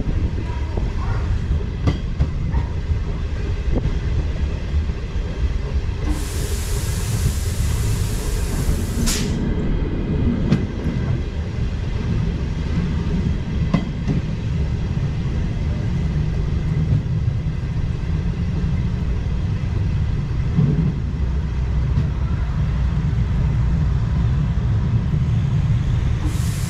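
ÖBB Railjet passenger train rolling slowly along the track: a steady low rumble of wheels on rail with scattered clicks. About six seconds in comes a hiss lasting about three seconds, which ends in a sharp click.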